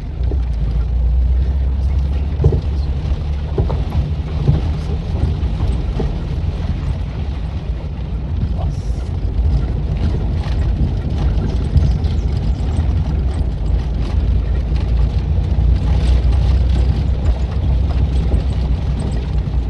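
Ford Del Rey Belina driven over a dirt road: a steady low rumble of engine and tyres, with scattered knocks and rattles that the owner puts down to a noisy suspension.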